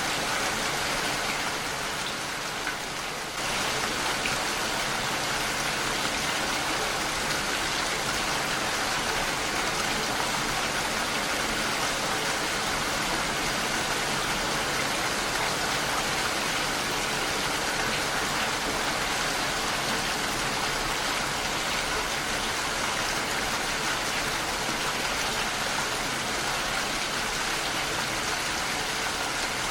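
Heavy rain falling steadily on a window, a dense, even hiss of drops. It eases slightly for a moment about two seconds in, then comes back to full level abruptly.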